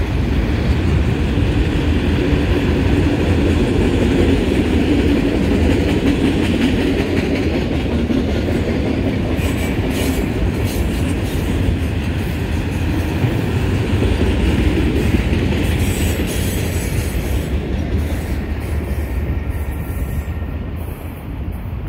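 Freight train autorack cars rolling past: a steady rumble of steel wheels on rail, with scattered clicks. The sound dies away near the end as the last car clears.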